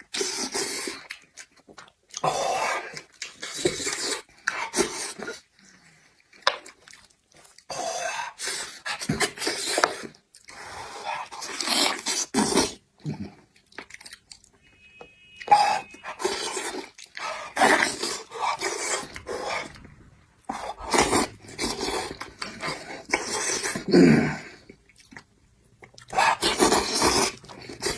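A person eating beef trotter: wet chewing and smacking in irregular bursts with short pauses between.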